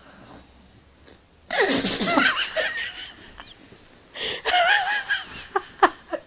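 Staffordshire bull terrier sneezing in loud, wheezy bursts: one about a second and a half in, another past four seconds, then several short sharp sneezes near the end.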